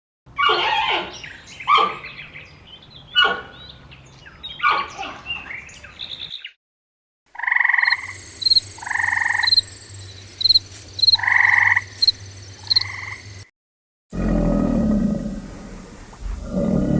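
A run of different animal calls split by two short silences: irregular chirping calls first, then a few seconds of evenly repeated croaking calls, then a low roar starting near the end.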